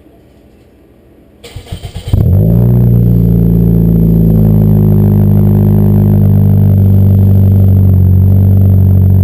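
2007 Ford Focus four-cylinder engine with an aftermarket BWR exhaust being started: the starter cranks briefly about a second and a half in, the engine catches about two seconds in, then it settles into a loud, steady idle.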